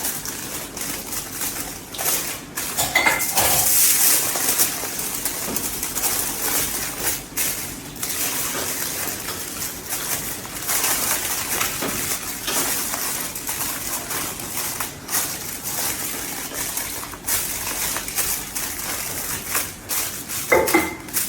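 Kitchen utensils and dishes clinking, knocking and scraping as food is handled and prepared, with a continuous hiss of rubbing and handling noise.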